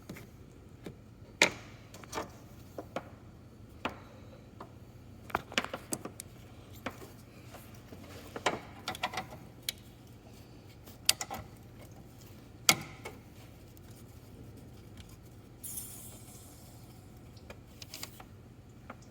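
Irregular clicks and snaps of A/C service port caps being taken off and quick-connect couplers being fitted onto the high- and low-side ports. A short hiss comes about two-thirds of the way through.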